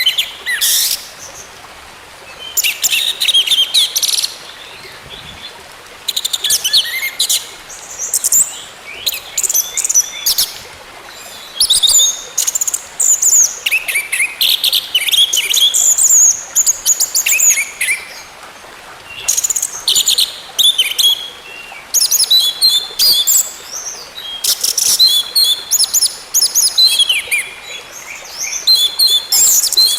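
Orange-headed thrush singing a run of short, varied, high-pitched phrases in quick succession, each a second or two long with brief pauses between, over a faint steady hiss.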